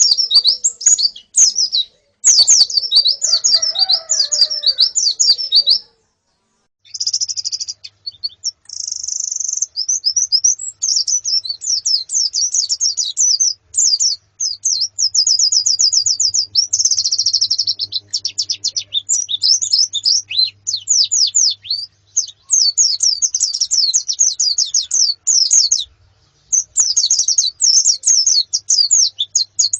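Female white-eyes (pleci) and a flock twittering: rapid runs of high, thin chirps overlapping one another, with a brief break about six seconds in and another shortly before the end.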